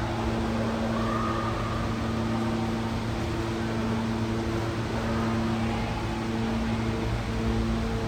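A steady machine hum with a low, even drone and background hiss.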